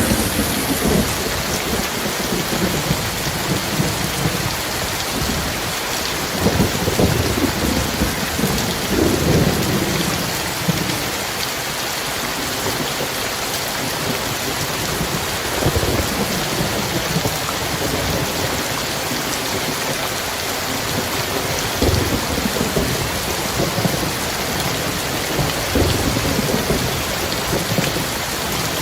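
Heavy rain pouring in a steady hiss, with thunder rumbling low several times, most strongly about a quarter of the way in.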